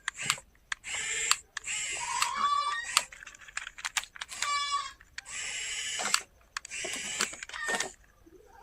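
Plastic toy vehicles being handled: repeated clicking and rattling clatters, with two short runs of rapid ratchet-like clicks about two and a half and four and a half seconds in.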